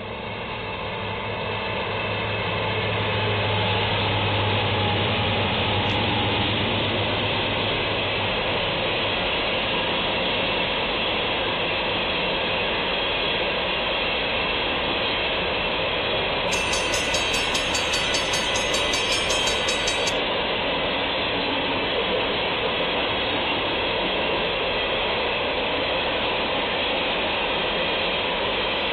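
Freight train passing: CN diesel locomotives go by with a steady low engine drone that fades after about eight seconds. A long string of empty coal cars follows, rolling over the rails with steady wheel and rail noise.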